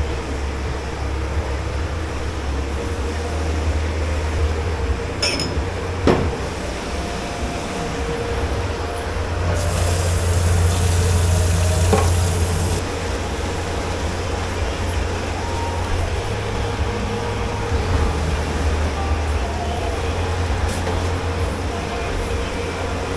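Commercial kitchen dish pit: a steady low hum of machinery, with a few sharp clinks and knocks of crockery, and a hiss for about three seconds roughly ten seconds in.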